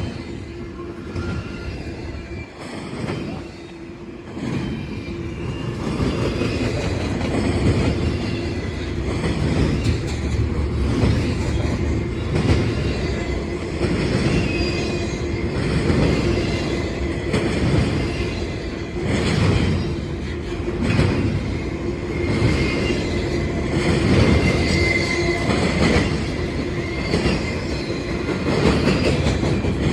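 Norfolk Southern freight train cars rolling past, their wheels knocking over the rail joints in an uneven rhythm under a steady rumbling hum. A faint wheel squeal rises and fades in the second half.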